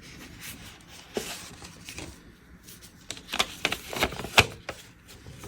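Hands handling small unboxing items such as paper inserts and packaging: scattered light rustles and taps, with a cluster of sharper clicks about three to four and a half seconds in.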